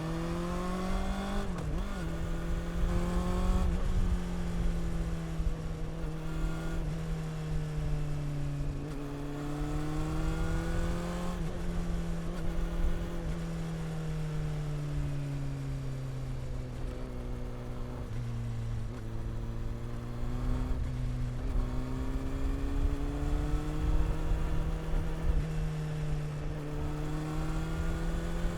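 Honda CB400 Super Four's inline-four engine and exhaust under way, pitch climbing as it revs up, with sudden drops at the gear changes, a long slow fall as it eases off, and a climb again near the end.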